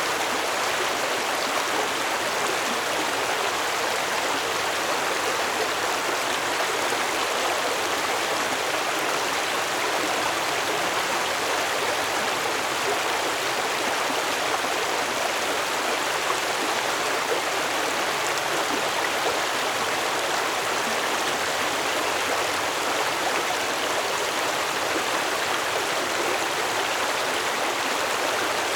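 Stream water flowing steadily over stones, a continuous even rushing and babbling.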